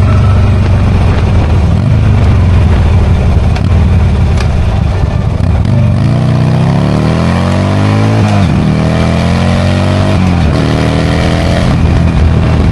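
V-twin motorcycle engine running steadily, then accelerating through the gears about halfway in: its pitch climbs, drops at two gear changes, and levels off to a steady cruise near the end.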